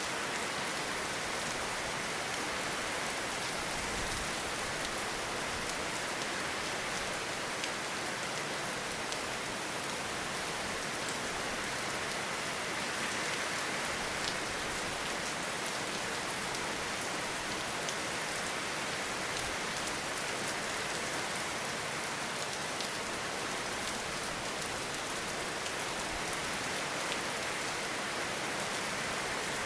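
Steady rain falling in a forest, an even hiss with scattered individual drop ticks.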